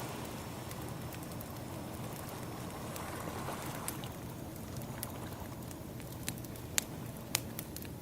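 Ambient soundscape of ocean waves washing with a wood fire crackling over them. One wave swell rises and falls in the first half, and several sharp crackling pops from the burning wood come near the end.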